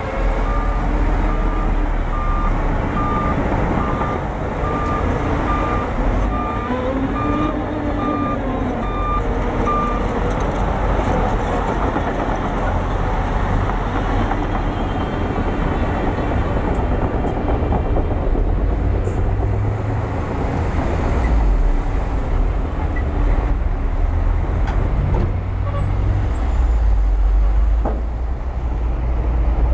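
Bulldozer's diesel engine running steadily under load, with a reversing alarm beeping at one pitch, about two beeps a second, that stops about ten seconds in.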